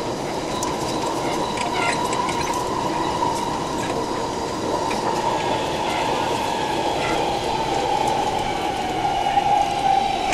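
Taipei Metro C371 train running, heard inside the car near the gangway: a steady rumble of wheels and running gear with a high whine that drops slightly in pitch near the end.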